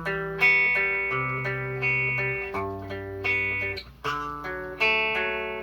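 Electric guitar playing chords that are struck and left to ring, the bass note shifting every second or so, with fresh strums about four and five seconds in.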